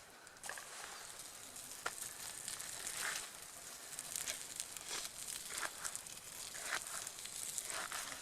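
Square slices of beef sausage sizzling in a mess tin over a campfire: a steady hiss with frequent small pops.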